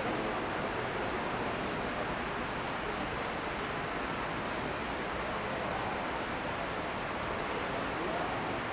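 A bird repeats a short, high chirp about once a second over a steady rushing background noise in an indoor tropical forest enclosure.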